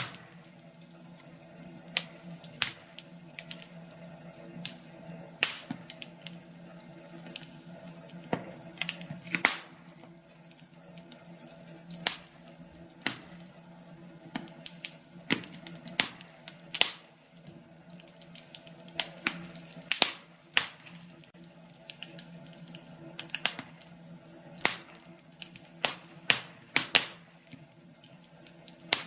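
Wood fire crackling in a fireplace: irregular sharp pops and snaps of burning logs, a few a second at times, over a steady low hum.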